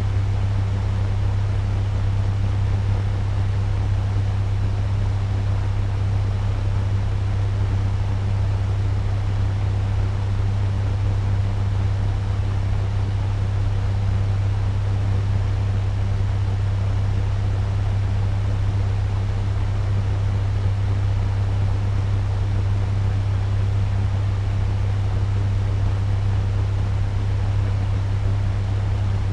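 Turbo fan running steadily at medium speed: an even rush of moving air over a strong, steady low hum.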